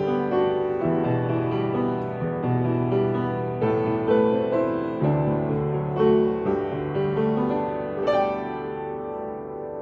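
Piano playing a slow melody over chords. A final chord is struck about eight seconds in and left to ring, fading away.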